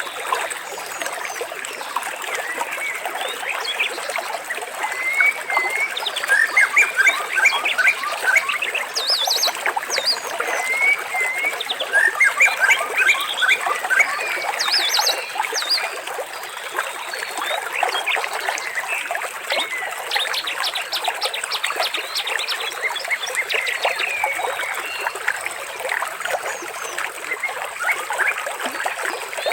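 Many birds chirping and trilling together, with short rising and falling whistles and fast pulsed trills, over a steady trickle of running water.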